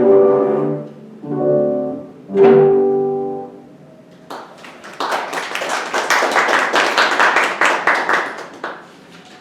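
A piece for bowed strings ends on three chords, the last one struck hardest and left to ring out. About four seconds in, the audience breaks into applause lasting about four seconds, then dies away.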